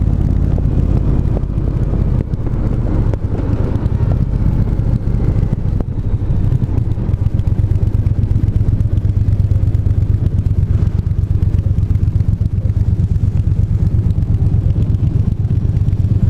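Triumph parallel-twin motorcycle engine running at steady revs while riding, holding one pitch with no revving; from about halfway through its note becomes a more evenly pulsed throb.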